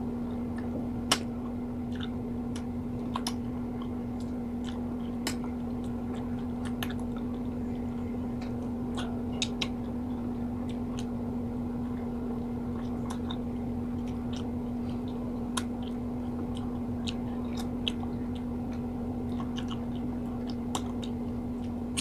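Close-miked eating of ripe mango: soft chewing with scattered wet mouth clicks and smacks, over a steady low hum.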